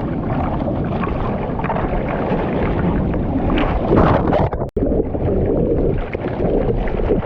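Wind buffeting the microphone over rushing, splashing surf, a steady loud roar that surges about four seconds in and cuts out for an instant just after.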